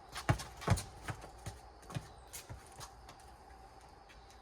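A rubber four square ball bouncing on pavement: a run of sharp thuds about every half second, the first two loudest, then fainter.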